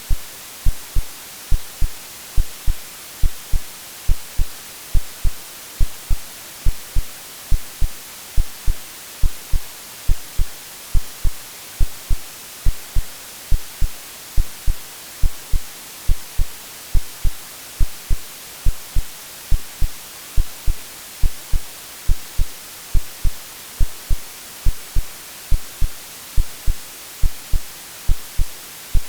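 Steady white-noise hiss with a regular heartbeat of low thumps running under it, a bit more than one beat a second. It is a synthetic womb-like mix made to soothe a baby to sleep.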